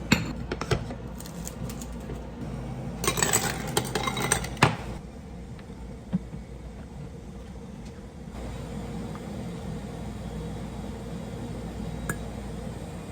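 Clinks and knocks of dishes, glassware and utensils being handled: a few clicks at the start, a busy run of clinking about three seconds in, then a single knock. A steady low hum runs underneath.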